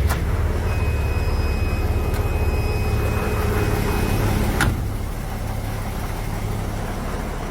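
Vehicle engine running just after a cold start in freezing weather, a steady low rumble with a faint high whine over it. About four and a half seconds in there is a click and the engine settles a little quieter.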